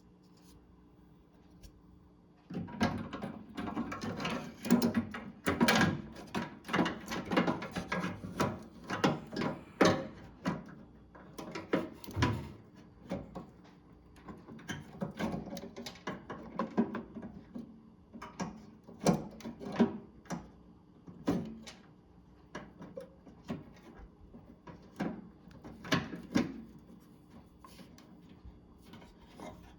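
Irregular clicks, knocks and rattles of a microwave's plastic door-switch assembly being handled and pushed back into its latch housing. They start a couple of seconds in and are busiest in the first half.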